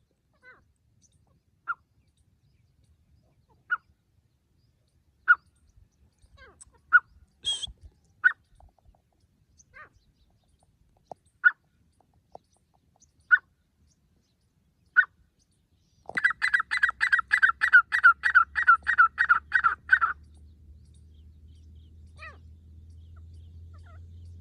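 Grey francolin calling: single short notes spaced about a second and a half apart, then a fast run of about sixteen loud notes lasting some four seconds. A low steady hum follows near the end.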